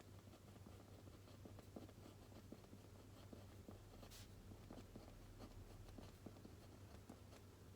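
Faint scratching of a pen or pencil writing on paper, in many short strokes, with one sharper, hissier stroke about four seconds in. A steady low hum runs underneath.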